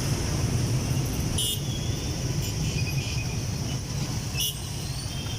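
Busy motorbike street traffic with a steady low rumble. Short horn beeps sound about a second and a half in, and again about a second before the end.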